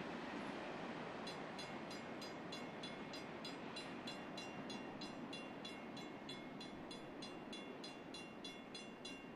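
Freight train of ballast hopper cars rolling away, its steady rumble slowly fading. From about a second in, a regular high-pitched ticking ring repeats about three times a second.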